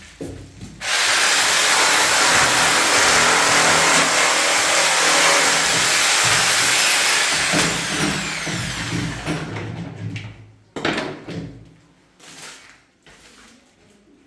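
An electric power tool switches on about a second in, runs loudly and steadily for about six seconds, then winds down, followed by a few quieter knocks and handling sounds.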